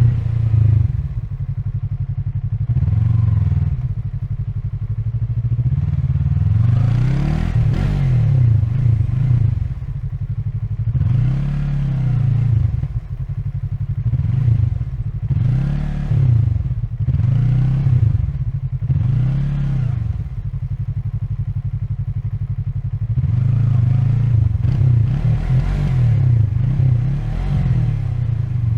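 Yamaha MT-03's 321 cc parallel-twin engine riding through slow traffic. The revs rise and drop back over and over in quick throttle blips, with a short steadier stretch about two-thirds of the way through.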